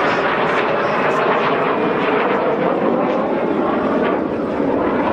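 Turbojet engine noise from display jets flying past, loud and steady.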